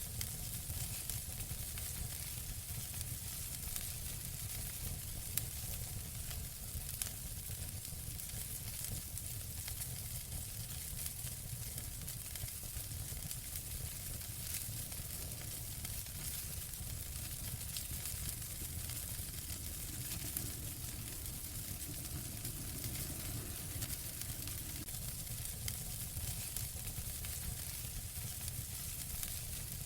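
Fire crackling in a fireplace: a steady hiss over a low rumble, with many small crackles and a few louder pops.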